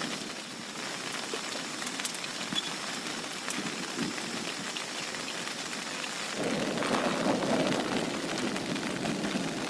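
Heavy rain falling steadily, with sharp ticks of single drops striking close by. About six seconds in, a low rumble of thunder swells up and fades away after two seconds or so.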